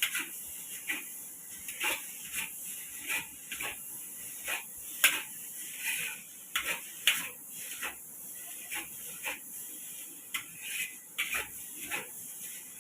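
Metal utensil clanking and scraping against street-stall cookware, irregular sharp strikes about once or twice a second over a steady hiss.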